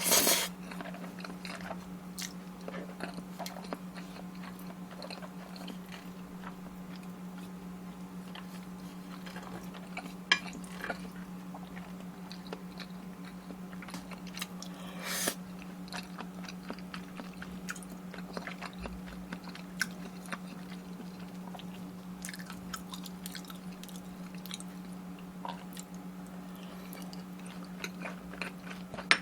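Close-miked chewing with many small wet clicks and a few louder crunchy bites, about 10 and 15 seconds in, over a steady low hum.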